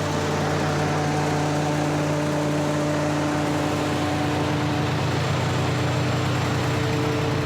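Semi truck's diesel engine idling steadily, a constant hum with several steady tones over an even hiss.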